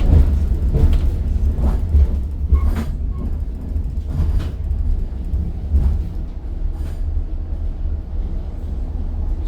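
Electric tram running, heard from inside the car: a steady low rumble with scattered knocks and clicks from the wheels on the track.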